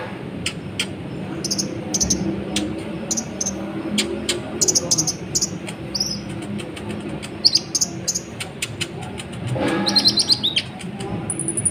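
Konin (kolibri ninja) sunbird singing a busy run of short, sharp high chirps and ticks, with a fast high trill starting near the end.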